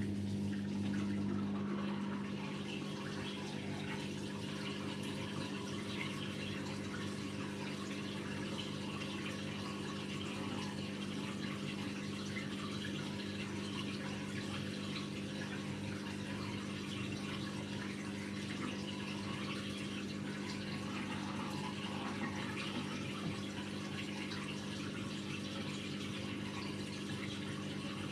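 AEG Lavamat Turbo washer-dryer moving water during its wash cycle: a steady electric hum under an even rush of flowing water.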